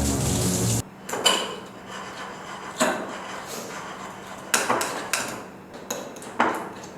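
Background music cuts off just under a second in; then a kitchen utensil knocks and scrapes against a mixing bowl about five times, irregularly, as stiff butter is worked in it.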